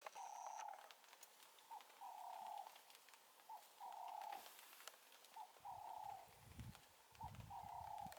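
A bird calling repeatedly and faintly, each call a short note followed by a longer, steady one, repeating about every two seconds. A low rumble comes in about halfway through.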